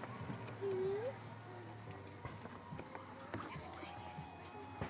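Crickets chirping in a steady, evenly pulsed high trill on a summer night, with a short faint rising whistle about a second in.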